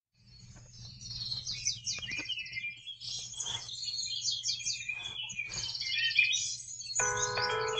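Songbird chirping fades in: many quick overlapping chirps and trills over a low steady hum. About seven seconds in, music starts with clear sustained notes.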